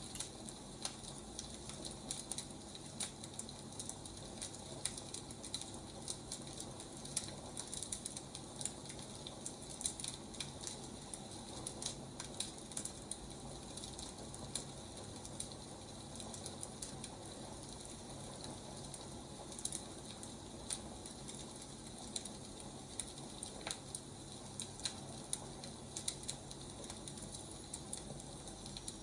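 Burning firewood: a steady soft hiss with irregular crackles and pops, several a second.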